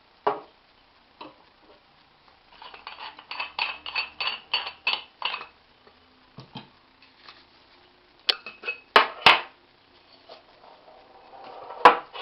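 Parts of a Bialetti Moka Crem stovetop coffee maker being handled: a quick run of light clinks and taps, then a few sharp knocks in the second half.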